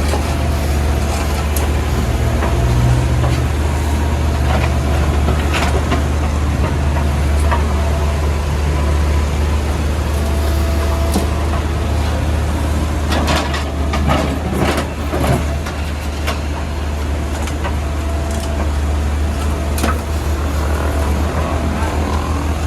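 Caterpillar backhoe loader's diesel engine running steadily under load, with scattered knocks and scrapes that come thickest a little past the middle.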